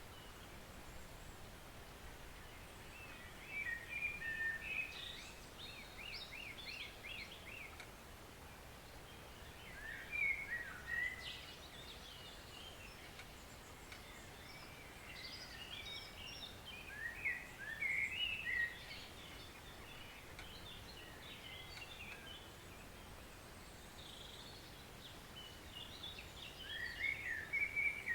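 Woodland songbirds singing in several short bursts of quick chirps and trills, one phrase a run of rapid repeated notes. Beneath them runs the faint, steady rush of a forest stream.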